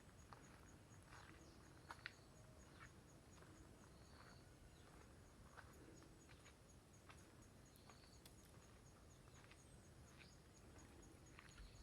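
Near silence outdoors: faint, irregular footsteps on a path, with a few short, faint, high chirps from birds.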